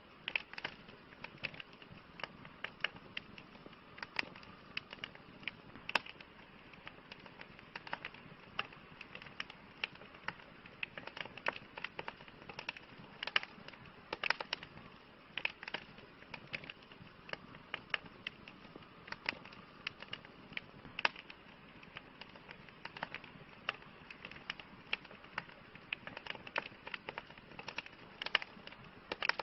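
Campfire crackling, with frequent irregular sharp pops and snaps over a soft steady hiss.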